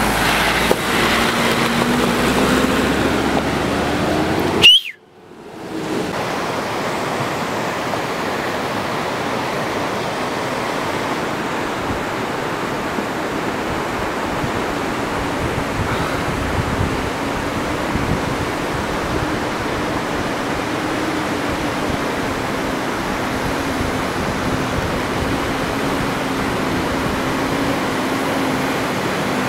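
An SUV engine running steadily under a constant rushing noise, with a low hum that wavers slightly in pitch. The sound cuts out briefly about five seconds in and then carries on unchanged.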